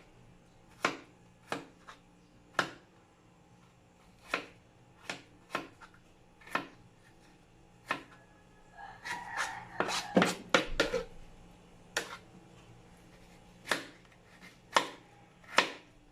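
Kitchen knife chopping on a cutting board in single, unhurried strokes about a second apart, with a brief flurry of quicker knocks and clatter about ten seconds in.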